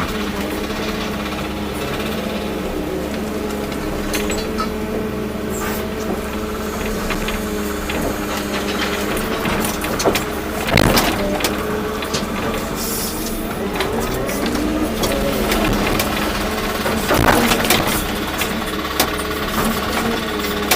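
Volvo EC240B excavator's diesel engine running steadily under working load, its pitch shifting slightly as the hydraulics work. Two loud knocks ring out, about halfway through and again about three quarters of the way through.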